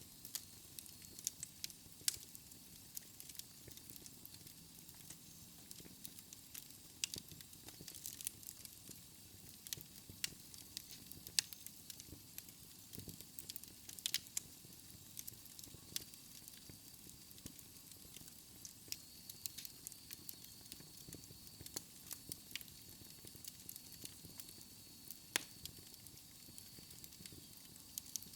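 Wood fire burning in a fireplace, crackling and popping with irregular sharp snaps over a soft steady hiss.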